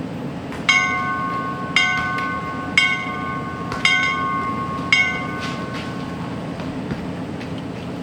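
A bell struck five times, about once a second, each stroke ringing on with several pitches, over a steady low rumble.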